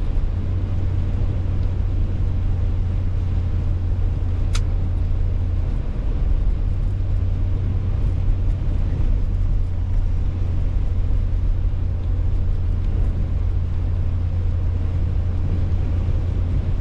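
Steady road and engine noise of a car being driven, heard from inside the cabin as a low rumble, with one brief click about four and a half seconds in.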